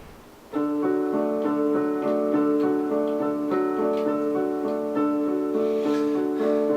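Piano playing a song's introduction, starting about half a second in with a steady stream of sustained notes.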